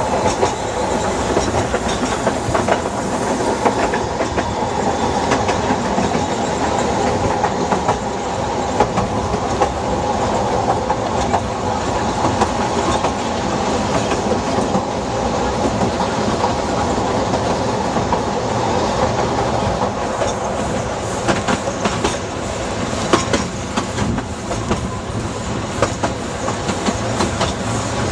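Narrow-gauge passenger train running, heard from on board a carriage: a steady rumble of wheels on the track with clickety-clack over the rail joints. The clicks come sharper and more often from about twenty seconds in.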